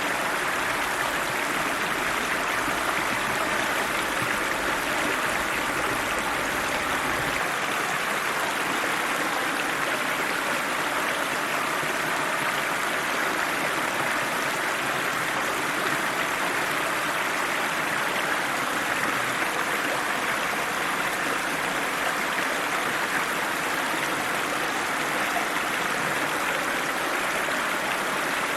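River water flowing and splashing steadily over its bed, a constant rushing without change. A faint low rumble beneath it drops away about seven seconds in.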